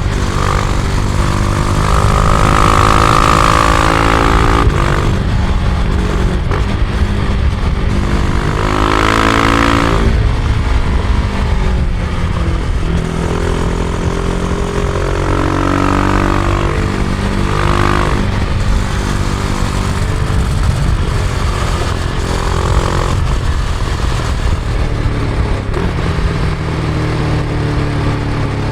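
Husqvarna Vitpilen 701's single-cylinder engine through its stock exhaust, ridden hard: the revs climb and fall back several times as it accelerates through the gears and eases off, with wind rushing over it.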